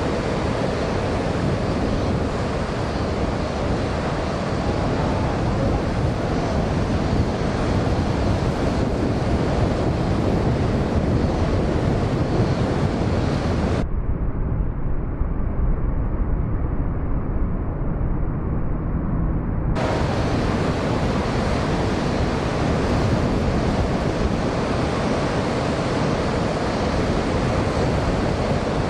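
Heavy ocean surf from a typhoon swell, a steady roar of breaking waves with wind buffeting the microphone. For about six seconds midway the sound turns muffled, the high end gone, then returns to full.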